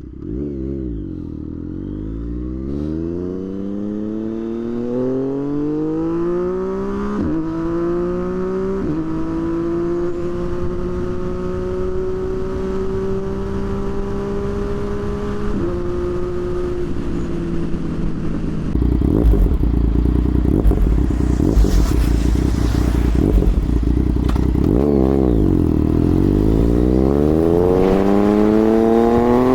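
Motorcycle engine being ridden hard: its pitch climbs as it accelerates, steps with gear changes, holds steady at a cruise, then drops about 25 seconds in and climbs again as it pulls away. Heavy wind rumble joins it from about 19 seconds in.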